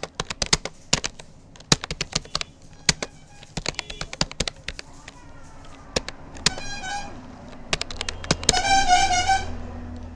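Typing on a Rapoo computer keyboard: a steady, irregular run of key clicks. A wavering, horn-like tone sounds briefly in the background twice, about two-thirds of the way in and again, louder, near the end.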